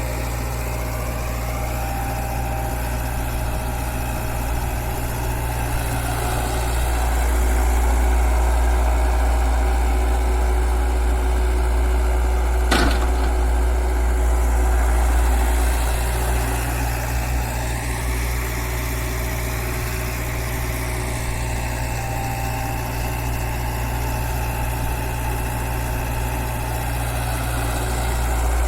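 Heavy diesel engine running steadily, growing louder for several seconds in the middle. One sharp knock about thirteen seconds in.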